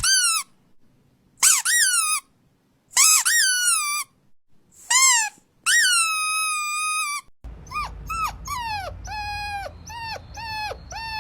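Dog whining in high, rising-and-falling cries: five long whines, then, from about seven seconds in, a quicker run of shorter whimpers over a low background hum.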